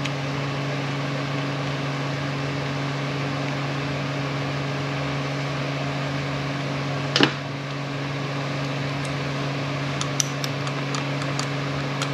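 A steady low machine hum runs throughout. About seven seconds in there is one sharp metal knock, and near the end a few light clicks, as parts of an air impact wrench are handled during reassembly.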